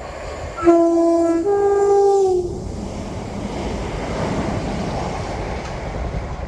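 Southern passenger train sounding a two-tone horn, a lower note then a slightly higher one, for about two seconds, then the steady rumble of the train running through the station.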